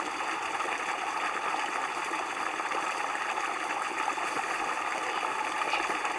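A stream running steadily.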